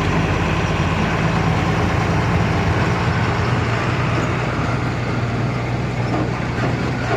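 Truck engine running steadily under way, a low even drone with road noise.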